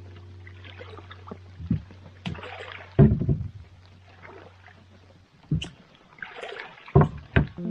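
A small boat being handled at the water's edge: hollow knocks against the hull, the loudest about three seconds in, and splashes of water between them. Under them runs a steady low hum that stops about five seconds in.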